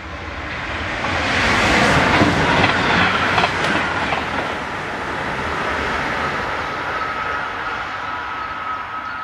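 DSB IR4 (class ER) electric multiple unit passing at speed, a rush of wheel and air noise that swells, peaks with wheel clatter about two to three seconds in, then slowly fades. A thin steady whine lingers as it dies away.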